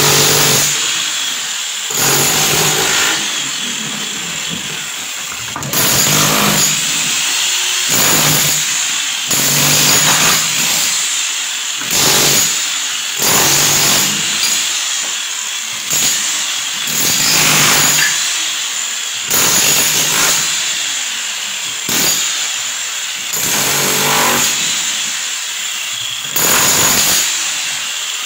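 A power tool run in repeated bursts, one about every one and a half to two seconds, each starting loud and easing off as the motor winds down between them.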